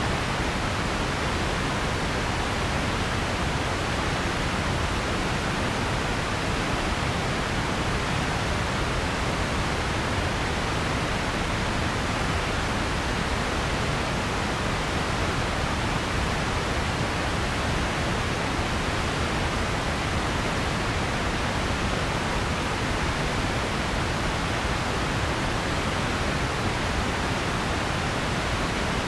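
Steady synthetic pink-type noise: an even, unchanging hiss with more weight in the low and middle range than at the top.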